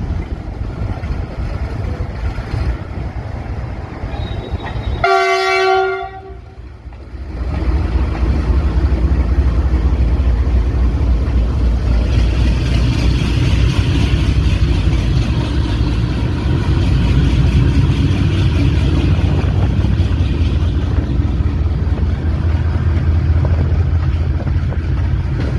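Two coupled WDG6G diesel-electric locomotives running with a steady low engine rumble. About five seconds in, one blast of the locomotive horn lasts about a second. From about seven seconds in, the engines run louder and keep going.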